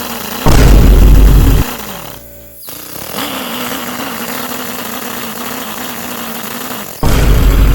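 Motorized LEGO car with a V8 drivetrain humming steadily, with two loud bursts of power of about a second each, one about half a second in and one near the end. After the first burst the hum slides down in pitch.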